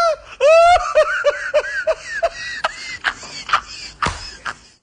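A person laughing: a run of short pitched bursts, about three a second, that fade away, followed by a few sharp clicks.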